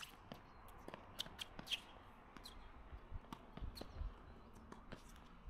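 Faint outdoor background with scattered short bird chirps and light clicks, and a few soft thumps.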